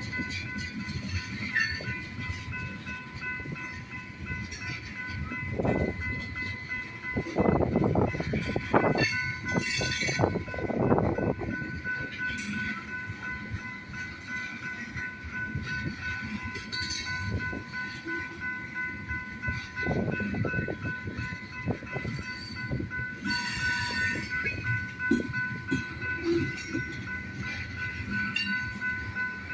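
Long train's railcars rolling past, wheels clattering and rumbling on the rails, with surges of louder clatter now and then and a steady high ringing tone over the top.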